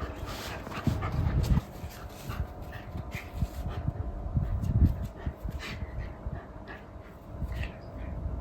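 Golden retriever's soft breathing and small vocal sounds mixed with irregular low thumps and rustles of the animals moving, busiest in the first second and a half and again around five seconds in.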